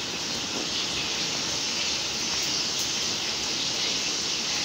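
Beef-mince chapli kababs sizzling steadily in hot oil in a frying pan.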